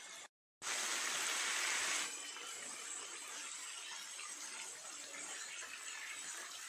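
Chicken pieces sizzling in hot oil on a tawa (flat griddle pan) while being stirred with a spatula, frying over high flame. After a brief cut-out near the start the sizzle is louder for about a second and a half, then settles to a steadier, softer hiss.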